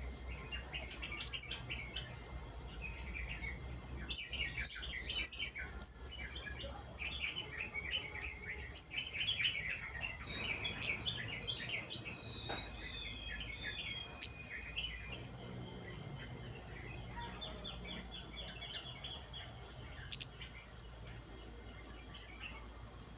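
Flowerpeckers calling: quick runs of thin, sharp, high "wucit" notes that flick upward in pitch, over busy twittering, with softer high ticks scattered through the later part.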